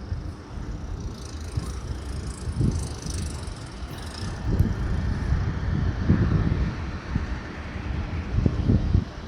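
HANWO 1104-D tractor running, a low rumble with irregular louder thumps.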